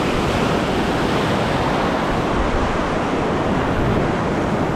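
Steady rush of surf washing over a shallow reef, with wind on the microphone.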